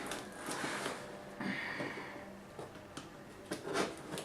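Faint rustling and a few light taps from a cardboard parcel with plastic packing inside being handled.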